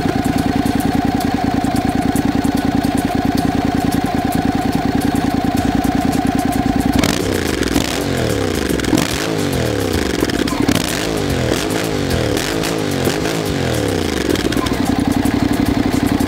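Motorcycle parallel-twin engine, exhaust fitted with a quiet-core muffler insert, idling steadily. About seven seconds in, the throttle is blipped several times in quick succession, each rev rising and falling. It settles back to idle near the end.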